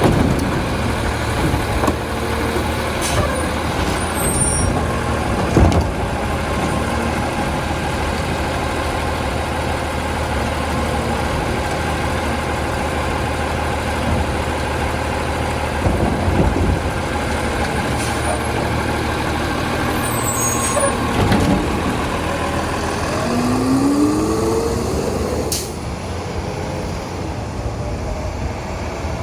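Garbage truck's diesel engine running steadily, with a few sharp knocks, short bursts of air hiss, and a brief rising whine about three quarters of the way through; the engine sound drops quieter near the end.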